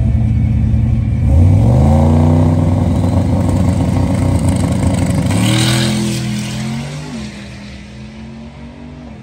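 A drag-racing vehicle's engine accelerating hard, its pitch climbing, dropping at a gear shift about five seconds in and climbing again, then fading as the vehicle pulls away down the strip.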